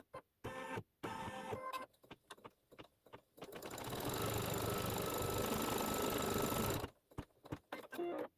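Embroidery machine stitching a placement line, its needle running in rapid, choppy stretches. From about 3.5 to 7 seconds it runs in one steadier, louder stretch, then stops abruptly and goes back to the choppy stitching.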